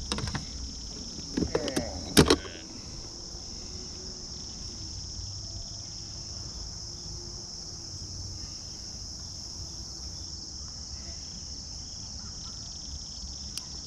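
Steady high-pitched chorus of insects from the riverbank. Over it come a few sharp knocks and clicks in the first couple of seconds, the loudest about two seconds in.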